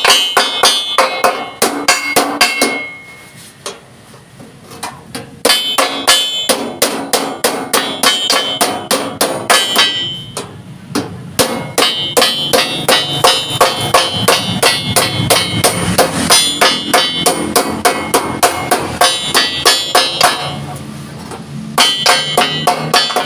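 Hammer blows on a steel plate, struck rapidly and steadily at several blows a second, each with a metallic ring. The hammering stops twice for a second or two.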